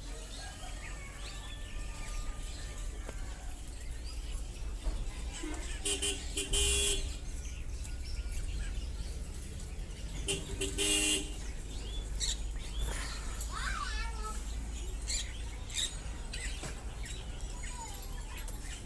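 Busy street background with a steady traffic hum and a vehicle horn honking twice, about six and ten seconds in, each toot lasting about a second.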